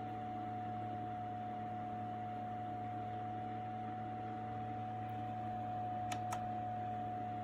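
Small desktop evaporative air cooler's fan running steadily, a constant whirring hum with a faint hiss. Two quick clicks near the end.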